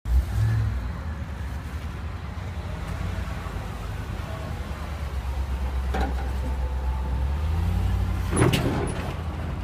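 Low, steady engine rumble that rises slightly near the end, with a sharp knock about six seconds in and a louder one about eight and a half seconds in.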